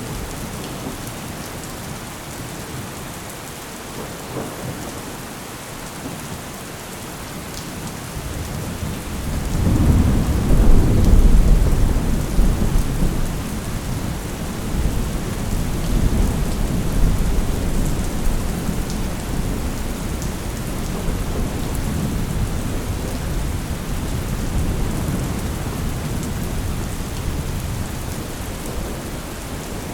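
Steady rain with a long roll of thunder. The thunder builds about nine seconds in, is loudest a couple of seconds later, and keeps rumbling in weaker swells for several seconds after.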